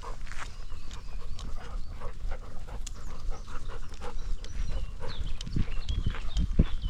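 A black Labrador panting close to the microphone of a camera strapped to it as it walks, with its paws scuffing and crunching on the trail.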